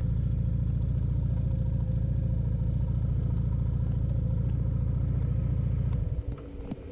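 Motorcycle engine running at a low, even beat, then stopping about six seconds in.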